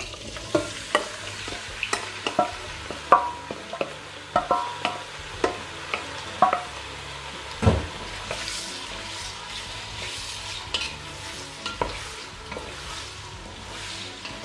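Diced potatoes going into hot olive oil in a pot and sizzling, while a wooden spoon scrapes and knocks against the metal bowl and the pot. The knocks come thick and ringing in the first half; after that the frying hiss and stirring carry on with only a few knocks.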